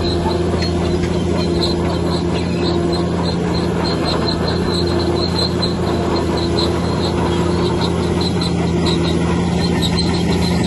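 Heavy diesel engine of a bulldozer running steadily, with a quick string of short high-pitched squeaks over it.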